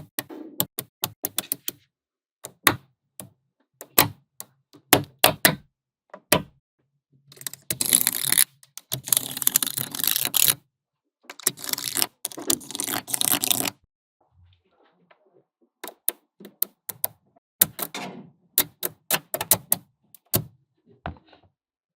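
Small magnetic balls clicking sharply as they snap onto each other, one click at a time, with two stretches of dense rattling clicks about seven seconds in and again around twelve seconds in.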